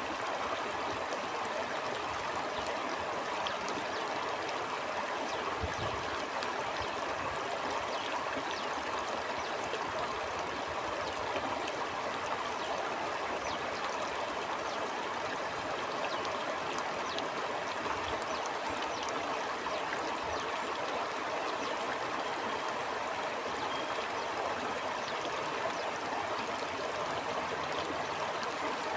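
A stream flowing with a steady, even rush of water and small splashes and gurgles throughout.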